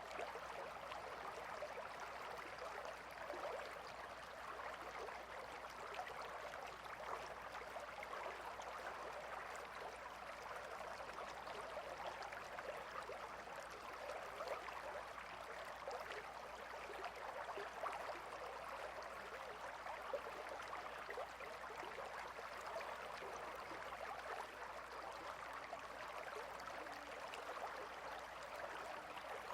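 Gentle river flowing steadily: a soft, even babble of water over stones with small splashes.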